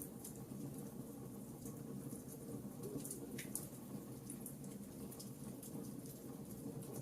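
Fire crackling in a fireplace: irregular sharp crackles and pops over a steady low rush of the flames.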